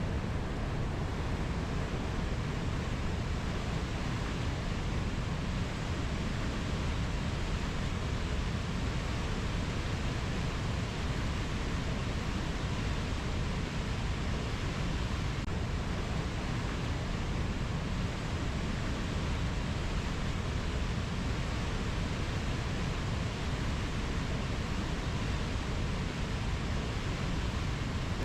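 Steady, even rushing rainforest ambience, with no bird or insect calls standing out.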